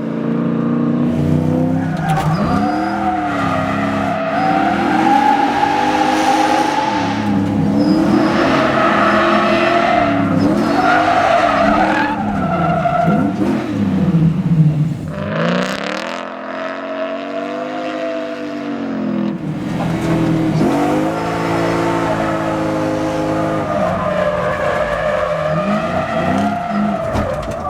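Toyota 1UZ 4-litre V8 in a drift car, revs repeatedly rising and falling under throttle, with tyres squealing and skidding through the slides. The engine note drops into a deeper lull about two-thirds through, then climbs again.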